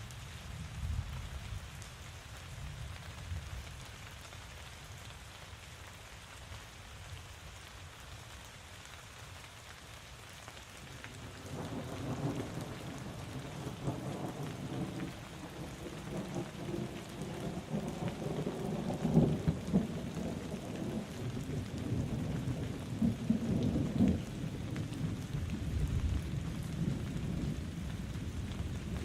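Steady rain falling, with a long roll of thunder that builds about a third of the way in and keeps rumbling to the end, loudest in the middle.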